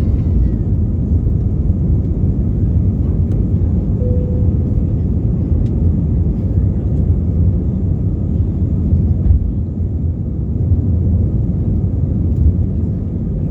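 Steady low rumble of an Airbus A320-232's IAE V2500 engines and airflow, heard inside the passenger cabin.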